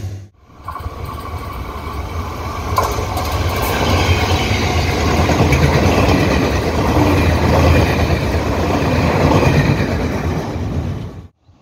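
Passenger train passing close by at speed: a steady rush of wheels on the rails that builds over the first few seconds and stays loud. It cuts off suddenly near the end.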